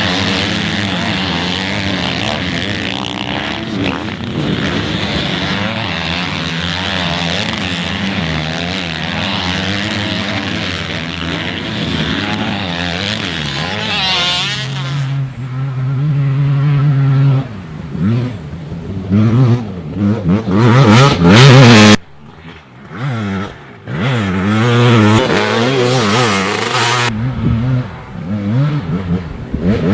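Motocross dirt bike engines revving hard, pitch rising and falling as riders accelerate and back off around the track, with a steady drone for the first half and sharper rev swings in the second. The sound cuts off abruptly a couple of times past the middle.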